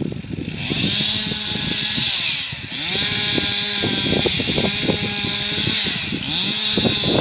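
T-40 tractor engine running under load, its pitch dipping and climbing again every few seconds, with a hissing whine over it.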